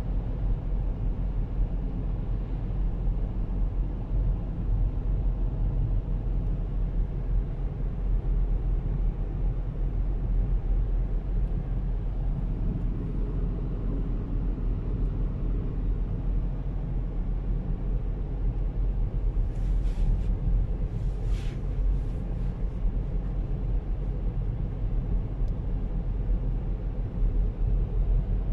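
Steady low rumble of a car driving on a road, engine and tyre noise heard from inside the car. Two brief hissing sounds come about twenty seconds in.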